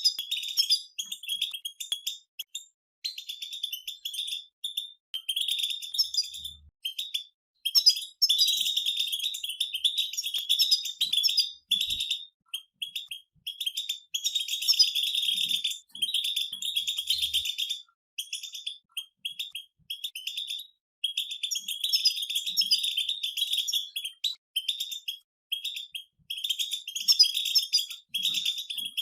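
A group of European goldfinches twittering together: fast chattering chirps in bouts of a second or two, broken by short pauses.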